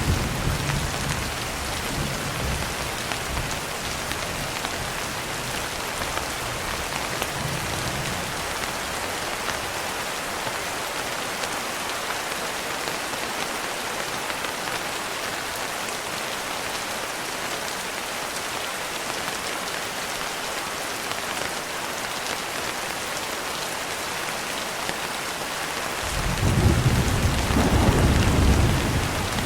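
Steady heavy rain hissing, with a low thunder rumble fading out over the first few seconds and another roll of thunder breaking in suddenly near the end.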